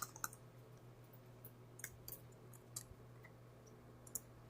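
Faint, scattered light clicks, a few at a time with gaps between: a cockatiel's beak pecking at computer keyboard keys.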